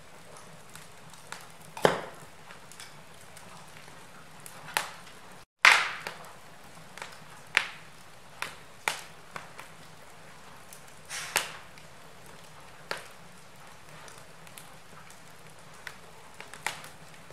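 Wood fire crackling in a fireplace: sharp, separate pops and cracks every second or two over a soft steady hiss. There is a brief drop to silence about five and a half seconds in, just before the loudest crack.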